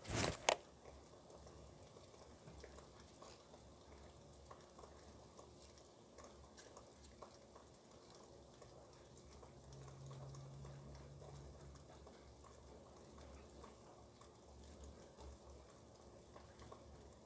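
Faint rain pattering and dripping off a roof, many small ticks over a soft hiss. A sharp knock close by right at the start, and a faint low hum for a couple of seconds midway.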